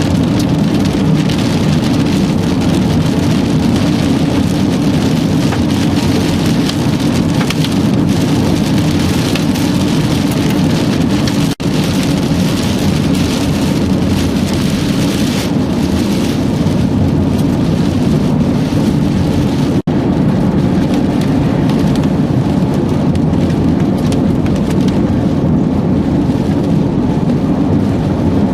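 Steady, loud rain and wind noise from a severe thunderstorm, with no distinct thunder claps. The sound drops out for an instant twice, about a third and about two-thirds of the way through.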